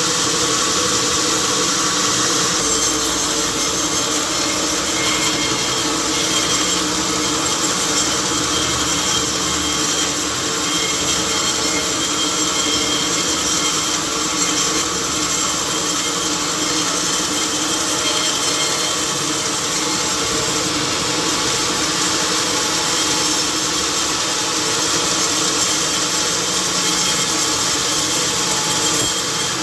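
Sawmill saw cutting through a log, a loud steady whine and rasp with no breaks.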